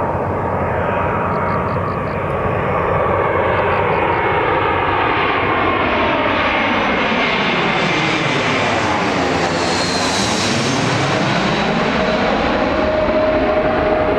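Airbus A321-200 jet airliner's engines as it flies low past on its landing approach. The noise is loud and steady, with a swirling, sweeping tone that is strongest and hissiest about ten seconds in as the plane goes by. A steady whine comes through near the end.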